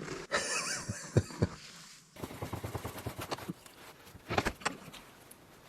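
Scattered sharp clicks and light metal knocks from tools and cylinder parts being handled, a cluster in the first second and a half and a few more about four seconds in.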